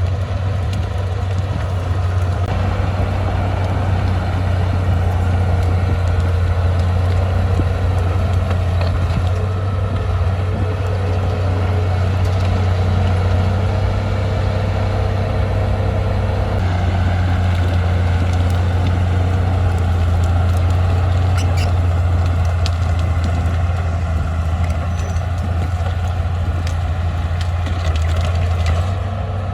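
Heavy diesel engine of a Komatsu D20P bulldozer running steadily, with a few light clanks in the second half.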